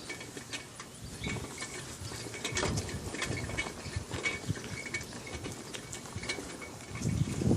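Bicycle rattling and clicking as it rides over bumpy ground, with irregular knocks that grow louder near the end.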